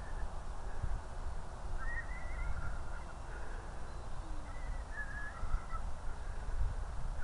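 Wind rumbling and buffeting on the microphone, with two short chirping calls about two seconds and five seconds in.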